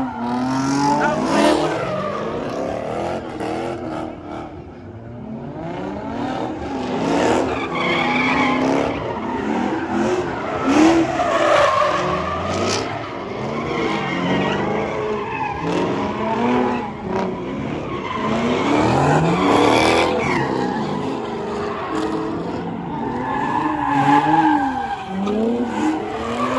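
Car engines revving hard with tyres squealing and skidding, the engine pitch rising and falling again and again.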